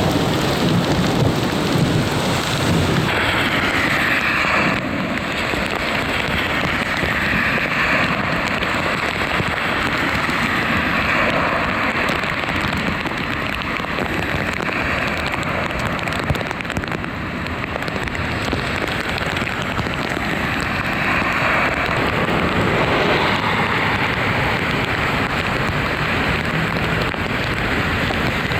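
Torrential rain pouring down in a dense, steady hiss, mixed with rushing floodwater. The sound shifts abruptly in character a few times.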